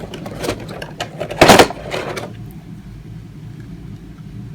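Packaging being handled and opened by hand: a run of rustles and clicks, with one loud rustle about a second and a half in, then it settles to a low steady background hum.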